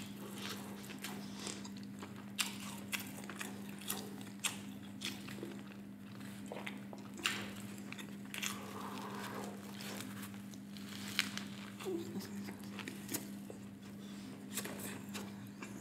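Close-miked eating of a Flamin' Hot Cheetos burger: biting, crunching and wet chewing, with sharp mouth clicks scattered throughout and another bite partway through. A steady low hum runs underneath.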